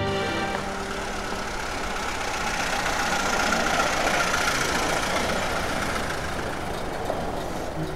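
Early motor car's engine running, a steady noisy rumble that swells about halfway through and then eases.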